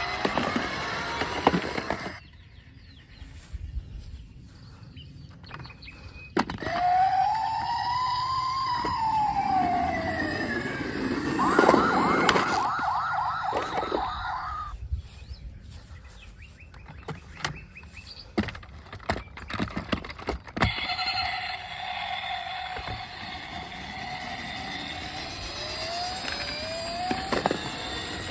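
Siren-like electronic sound effects, of the kind toy police cars make: a tone that rises and falls, a fast warbling trill in the middle, then a steadier tone, with scattered clicks in between.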